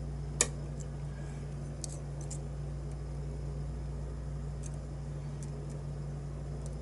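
Small scattered clicks of a lock pick working the pins of a challenge lock: one sharper click about half a second in, then a few faint ticks, over a steady low hum.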